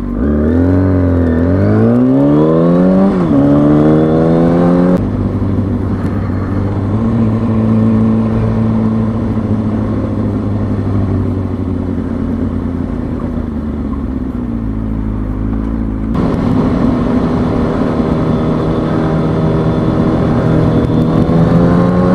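Kawasaki ZX-6R 636 inline-four sport bike engine accelerating hard, its pitch climbing with a gear change about three seconds in, then holding a steady speed, then climbing again near the end.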